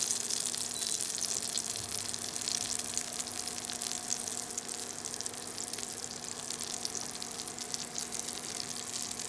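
Soya nugget kababs shallow-frying in oil on a tawa griddle: a steady crackling sizzle of hot oil.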